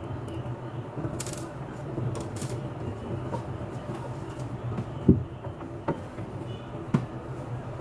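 A few sharp knocks and clicks, the loudest about five seconds in and two more about a second apart after it, with short scraping rustles earlier, over a steady low hum.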